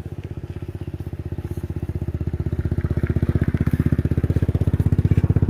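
Motorbike engine running at low revs, its rapid, even firing pulses growing steadily louder.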